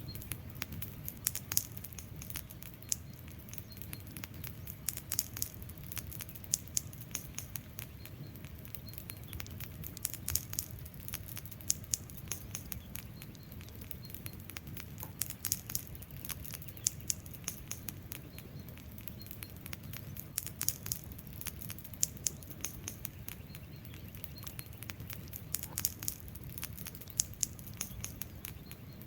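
Wood fire crackling, with frequent irregular sharp pops and snaps from the burning logs over a low steady rush of flame.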